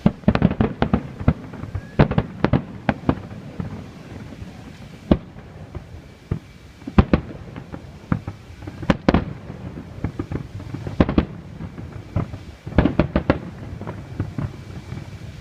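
Fireworks display: shells bursting in quick clusters of sharp bangs with irregular pauses, over a continuous low rumble from the barrage.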